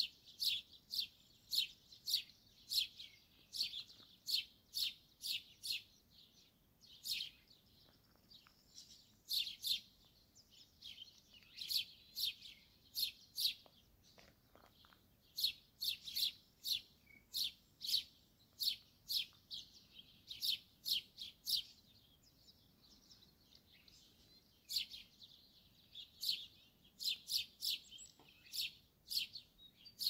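Small songbirds chirping: short, high notes repeated about two a second in runs, with brief pauses between runs.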